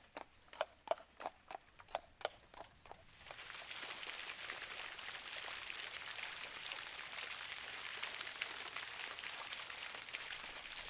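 Even clip-clop of hard steps, about three a second, stopping about three seconds in. After that a steady hissing noise with fine crackle takes over.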